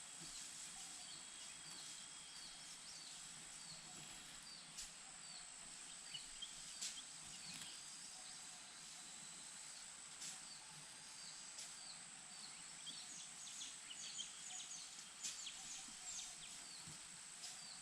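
Faint nature ambience: a steady high-pitched hum with short, high, falling chirps repeating about twice a second. The chirps grow busier near the end, and a few soft clicks are mixed in.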